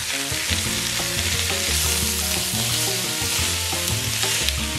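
Diced onions, bell peppers and pork neck bones sizzling as they sauté in a hot Dutch oven, stirred with a few light clicks of the utensil. Background music with low bass notes plays underneath.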